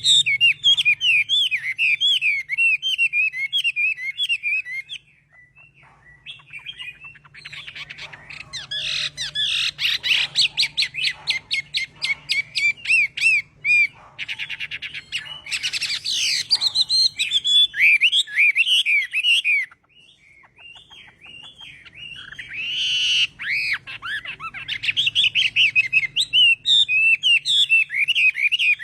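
Chinese hwamei singing: long phrases of rapid, varied whistled warbles and trills, broken by two short pauses.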